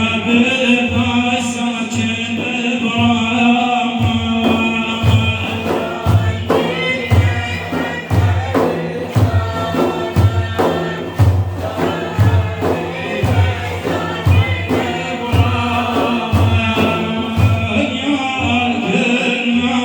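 Madih, Islamic praise song for the Prophet, sung by men in chorus over a steady hand-drum beat of about one low stroke a second.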